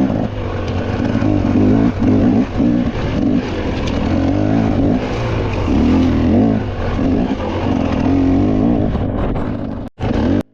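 A mountain bike being ridden fast: rumbling noise from wind and tyres, with a buzzing whir that rises and falls in pitch in spurts about once a second. It cuts off abruptly near the end.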